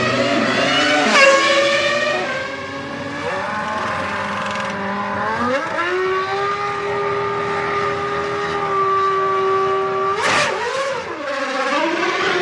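Formula One car engine at high revs. Its pitch climbs, drops at a gear change about two seconds in, then climbs again and holds a steady high note for about four seconds. Near the end there is a short rough burst and a falling pitch, then the pitch rises again.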